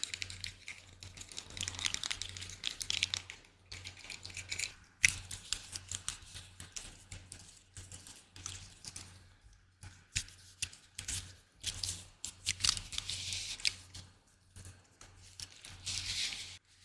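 Close-miked ASMR trigger sounds: quick, sharp taps and scratches, mixed with short stretches of crisp rustling and crinkling.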